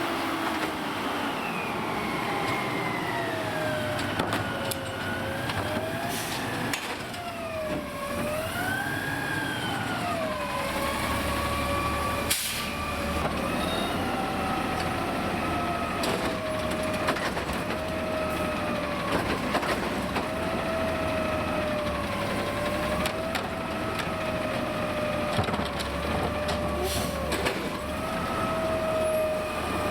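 Autocar automated side-loader garbage truck working its lifting arm: the engine is revved and a hydraulic whine rises and falls in pitch again and again, with a few sharp knocks of the arm and cart, the loudest about twelve seconds in.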